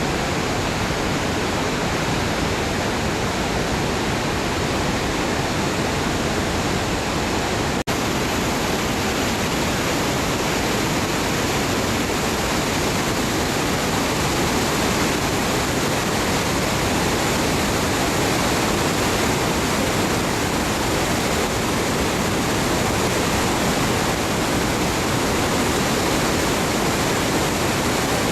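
Rhine Falls waterfall: a steady, loud rush of falling water, briefly cut off about eight seconds in.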